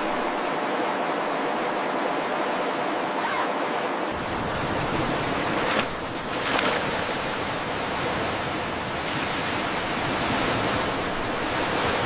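Steady rushing water, an even hiss. About four seconds in it deepens as a low rumble joins.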